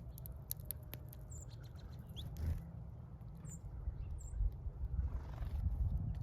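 Birds at a feeder giving a few short, high chirps, with many faint high ticks. A steady low rumble is the loudest thing throughout.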